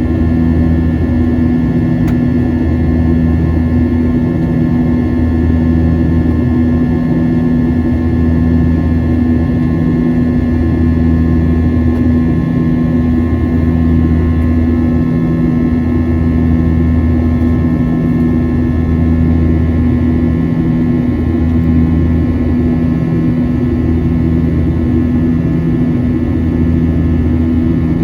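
Boeing 737-800 cabin noise in flight: the steady drone of its CFM56-7B jet engines and airflow, with a low hum that swells and fades every two to three seconds.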